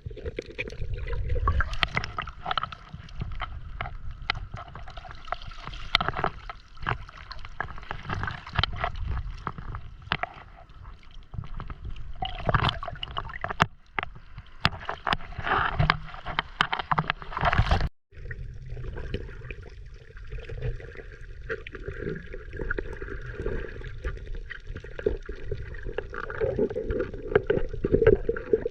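Water splashing and sloshing, with scattered knocks and handling noises, as a fishing net is worked in the water. It drops out for a moment about eighteen seconds in, then goes on.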